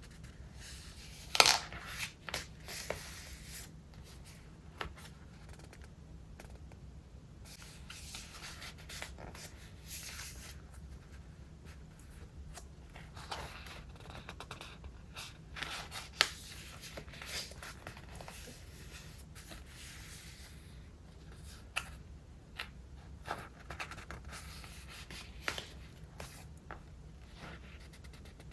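Pages of a thick, collage-filled traveler's notebook being turned and handled: scattered paper rustles and crinkles with soft taps, the sharpest about a second and a half in.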